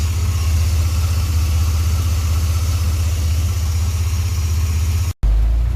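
Chevrolet 4.3 V6 idling steadily through JBA headers, a Thrush glasspack and a Dynomax Super Turbo muffler, with an even low exhaust pulse. The idle is stable and not jumping around. The sound breaks off for a moment near the end and picks up again.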